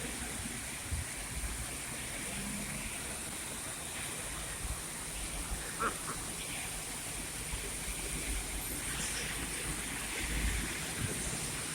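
Heavy rain falling steadily, an even rushing hiss of downpour.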